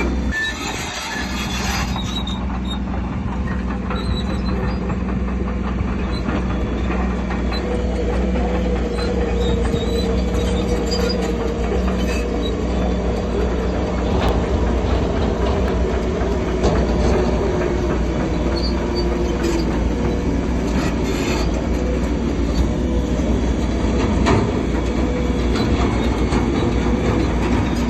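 Crawler bulldozer working: its diesel engine runs steadily under a wavering metallic squeal and scattered clanks from the steel tracks.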